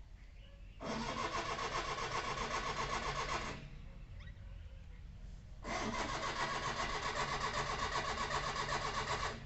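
Maruti 800's three-cylinder petrol engine being cranked by its starter motor in two attempts. The first lasts about three seconds, and the second starts about two seconds later and runs nearly four seconds. Each attempt stops abruptly, with no sign of the engine catching.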